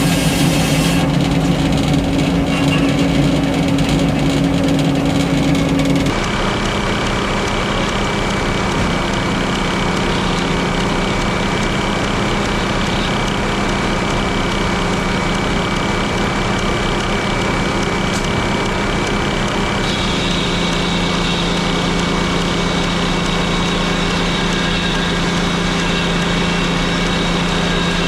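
Frick sawmill running: the engine driving the circular saw keeps a steady note. The sound drops and changes about six seconds in, and shifts again near twenty seconds.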